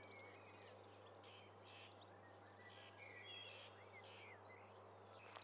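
Faint birdsong: many quick chirps and trills, some sweeping downward, over a steady low hum.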